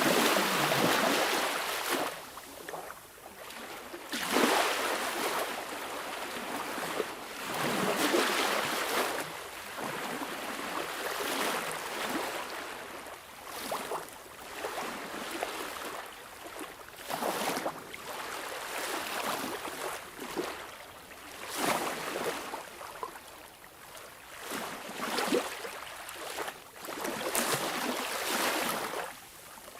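Small sea waves washing in, each one swelling and falling back every two to four seconds.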